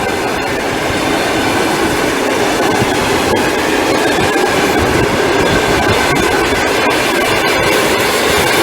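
Passenger train hauled by an EP2K DC electric locomotive rolling past slowly while picking up speed after a station stop. The wheels click over the rail joints, with a steady rumble that grows slightly louder.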